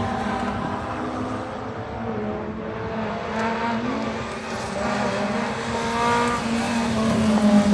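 Two-wheel-drive rallycross cars racing, several engines running hard at once, their pitches climbing and dropping through gear changes. The engines get louder near the end.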